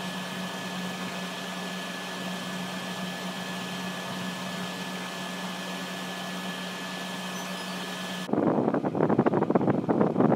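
12000 BTU portable air conditioner running steadily, a whooshing fan with a low hum and a faint high whine. About eight seconds in it cuts off suddenly, and a louder, busier sound of rapid strokes takes over.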